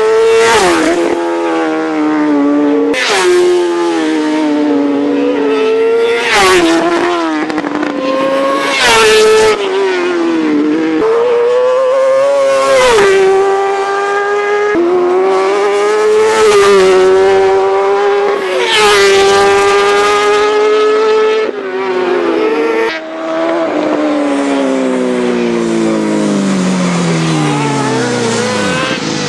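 Superbike racing motorcycles at full throttle passing one after another. Each high-revving engine climbs in pitch, drops at the gear changes and sweeps past with a rush of sound every few seconds. Near the end one engine's pitch slides down steadily as it slows or moves away.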